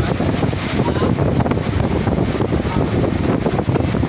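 Steady rush of water from a shipboard FlowRider surf simulator, with wind buffeting the microphone.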